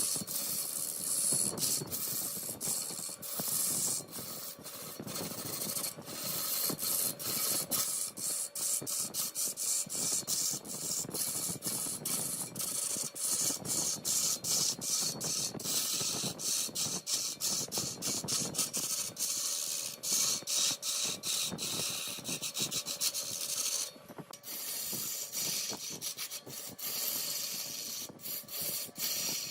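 Wood lathe turning mahogany: a cutting tool shaving the spinning wood with a steady scraping hiss, broken by quick irregular dips, over a faint motor hum. About three-quarters of the way through, the hiss becomes duller and quieter.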